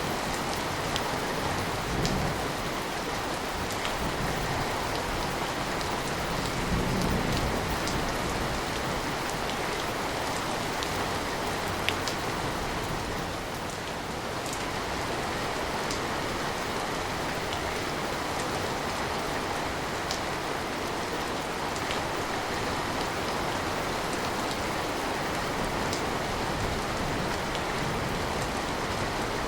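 Steady rain falling, with scattered sharper drop ticks and a few brief low rumbles early on. Rain heard as by a window.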